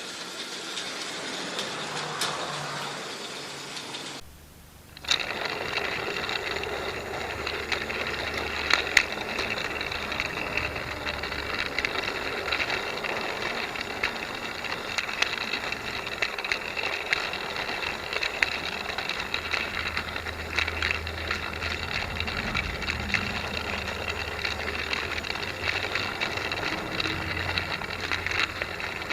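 Trackmaster battery-powered toy locomotive running on plastic track: a steady whirr from its motor and gears with many small clicks and rattles. The clicking goes with wheels that bind once every revolution, a sign of a poorly made plastic chassis. The sound drops briefly and changes character about four seconds in.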